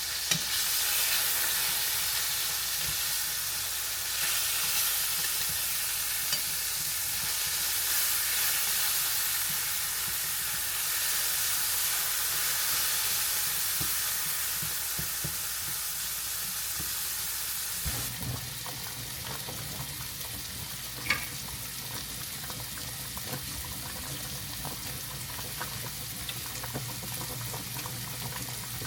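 Food frying in a pan, a steady sizzling hiss. About two-thirds of the way through, the sound changes abruptly to a duller, quieter hiss over a low hum, with one sharp click a few seconds later.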